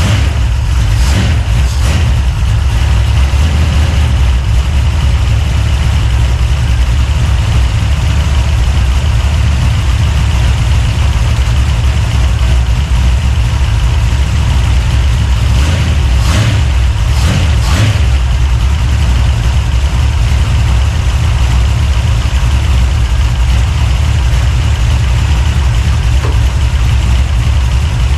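Freshly built 383 stroker small-block Chevy V8 idling steadily on its first run in the car. A few short clicks come about a second in and again around sixteen to eighteen seconds in.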